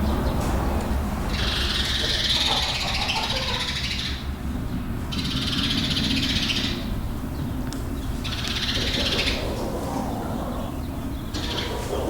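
Chickens clucking and squawking inside a barn, in bouts of one to three seconds, over a steady low rumble.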